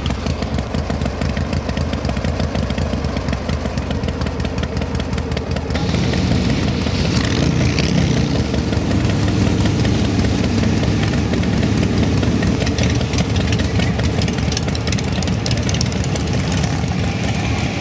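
Motorcycle engine running with a rapid, even firing pulse, getting louder at about six seconds in.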